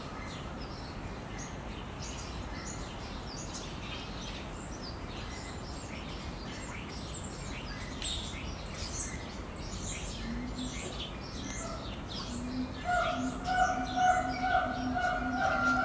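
Small birds chirping over steady background noise. About three-quarters of the way through, a louder steady tone comes in and holds to the end.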